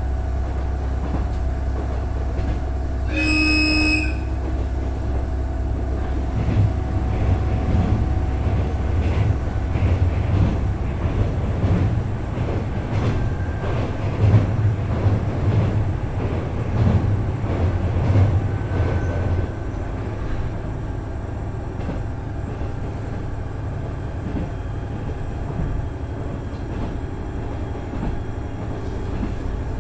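Inside a KiHa 110 series diesel railcar running under its Cummins DMF14HZA engine, with a short blast of the railcar's horn about three seconds in. The low engine rumble grows heavier from about six seconds in and drops back a little before twenty seconds, over steady wheel and rail noise.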